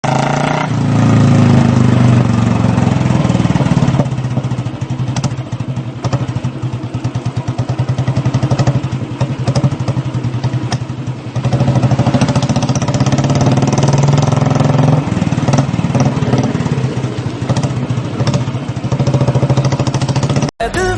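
Motorcycle engine running on the move, steady but louder and quieter by turns. It cuts off suddenly near the end.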